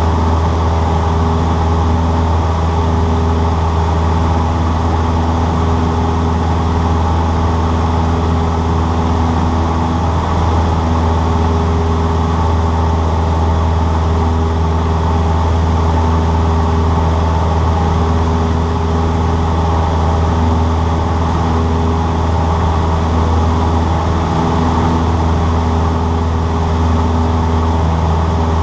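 Cessna 152's four-cylinder Lycoming piston engine and propeller running at a steady drone, with an even pitch that holds throughout.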